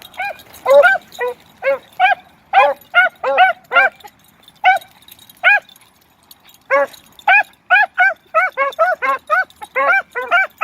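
Beagles baying on a track: short pitched barks in quick runs, sometimes overlapping, with a pause of two or three seconds just before the middle, then resuming faster and thicker.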